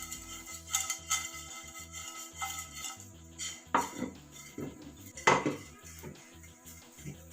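A cooking utensil stirring and scraping against a pan, with irregular clinks, as whole spices and grated coconut dry-roast; the loudest knock comes a little after five seconds in.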